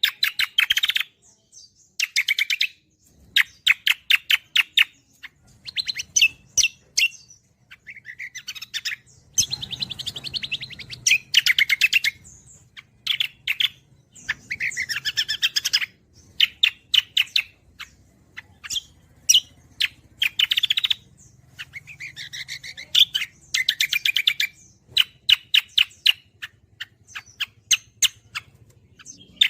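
Cucak kombo, a green leafbird, singing in full song: loud phrases of rapid chirps and trills with short pauses between them.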